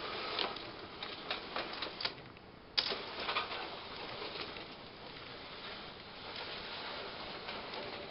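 Tinplate friction-driven toy train running on metal track: a steady rattling hiss with a run of sharp clicks in the first two seconds and a sharp click a little before the three-second mark.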